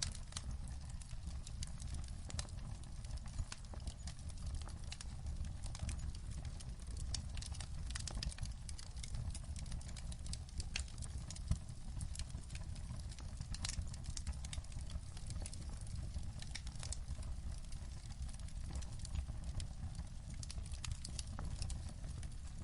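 Wood fire crackling in a fireplace: many sharp irregular pops and snaps over a steady low rumble of the burning fire.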